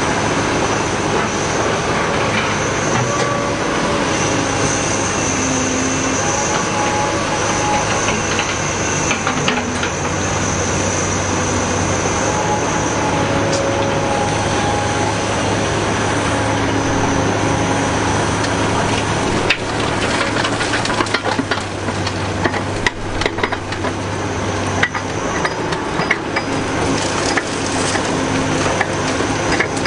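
Caterpillar 245B hydraulic excavator working: its diesel engine runs steadily under a shifting hydraulic whine. From about two-thirds of the way through, a rough clatter of knocks and crunches of rock and dirt joins it.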